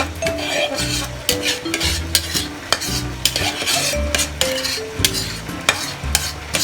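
A utensil stirring and scraping food in a sizzling cooking pan, with short irregular scrapes and clinks several times a second, over background music.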